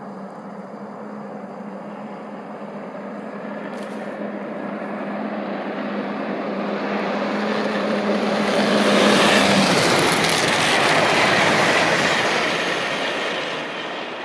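High-speed passenger train approaching at speed, growing louder until it rushes past about nine seconds in, then fading as it moves away. A steady low hum heard during the approach stops as the train passes.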